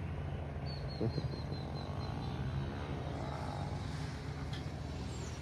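A bird chirping a quick run of short, high notes, starting about a second in, over a steady low hum.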